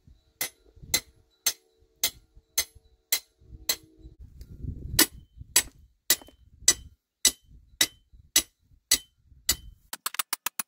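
Hammer blows on metal, evenly spaced at about two a second, the first few leaving a brief ring, then a quick run of faster taps near the end.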